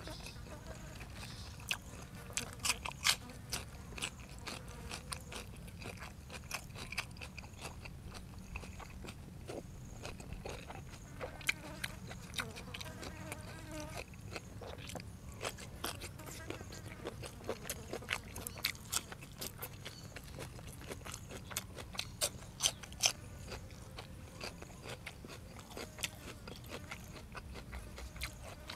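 Close-up chewing and crunching of blanched squid and crisp fresh vegetables, with many sharp, irregular crunches.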